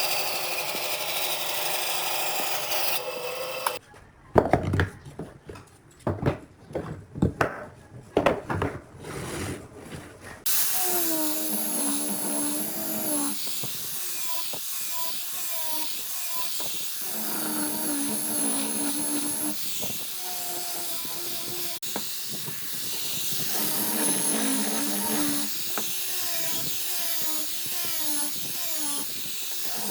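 Woodworking power tool work: a motor runs steadily for the first few seconds and then stops. A run of sharp knocks and clatter follows. About ten seconds in, a power tool starts again and runs to the end, its pitch dipping and recovering again and again as it is loaded.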